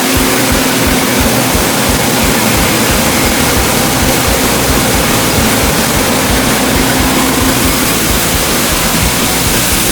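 Homemade band sawmill powered by a Ford industrial engine, running: a steady engine beat under loud, even mechanical noise.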